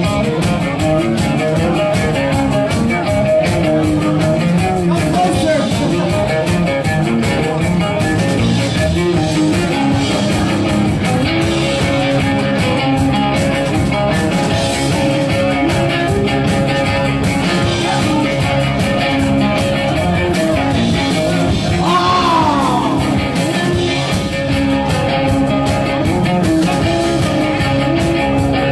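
Rock music with a plucked cello and a steady beat, with a sliding note about 22 seconds in.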